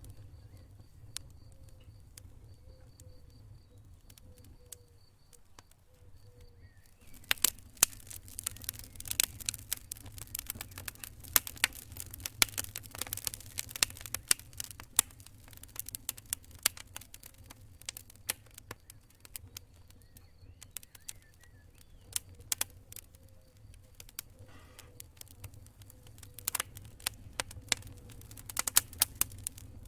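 Campfire crackling: irregular sharp pops and snaps over a low steady rumble, sparse at first, then turning dense and loud about seven seconds in.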